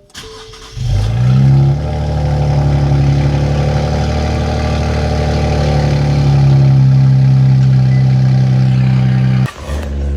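Nissan Z Nismo's twin-turbo V6 with the Nismo track exhaust starting up. It catches and flares, then holds a steady, loud fast idle, and near the end drops abruptly to a quieter, lower idle.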